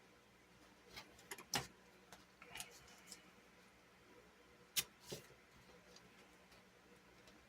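Faint, scattered clicks and light taps of small craft supplies, such as washi tape rolls, being picked up and set down on a desk, with two sharper taps about a second and a half in and near five seconds.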